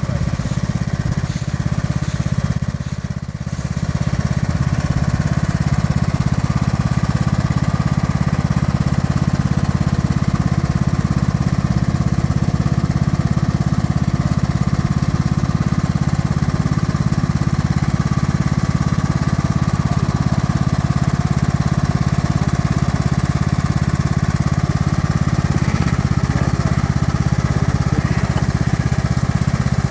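Tractor engine running steadily under way, with a short dip in level about three seconds in.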